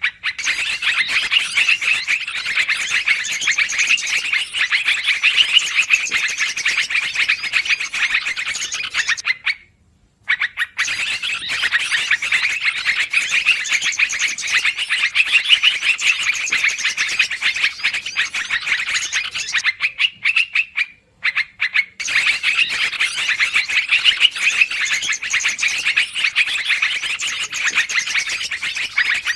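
Yellow-vented bulbuls (trucukan) chattering excitedly as a bird-lure recording: several birds calling over one another in dense, busy runs, with brief pauses about a third and two thirds of the way through.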